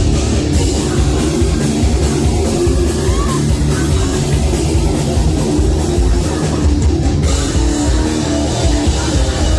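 Live heavy metal band playing loud, with distorted electric guitars and a drum kit, heard through the room's PA.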